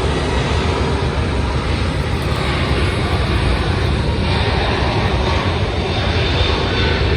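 Airliner jet engine noise, a steady loud rushing sound heaviest in the low range, holding level without clear rises or falls.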